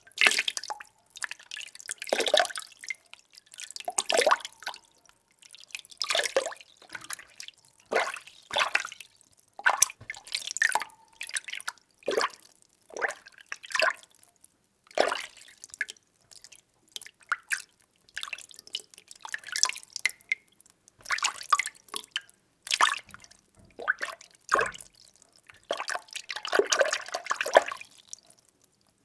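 Water being stirred: short irregular swishes and splashes, about one every second or two, with brief pauses between and a longer swirl near the end.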